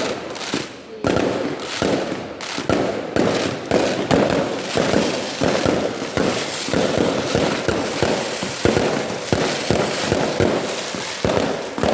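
Fireworks going off in rapid succession: a dense, unbroken run of bangs and crackles, several a second, growing thicker after about four seconds.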